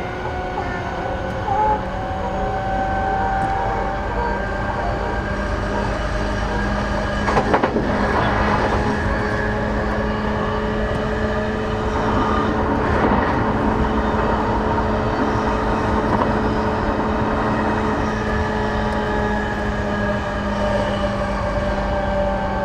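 Interior running sound of a JR East E233 series 8000 electric train at speed: a continuous rumble of wheels on rail with steady motor tones. A short burst of rattling clatter comes about seven seconds in, and a weaker one near thirteen seconds.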